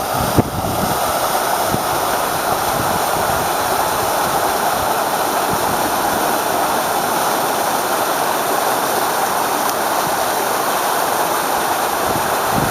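Waterfall running with the monsoon rains: a steady, even rush of falling water.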